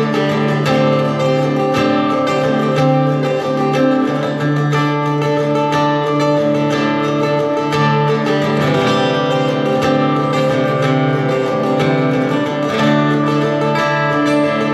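Acoustic guitar strummed in an instrumental passage of a song, with steady, even strokes ringing out in sustained chords.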